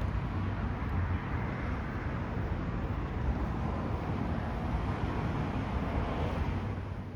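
Steady low rumbling noise with a hiss over it, fading out near the end.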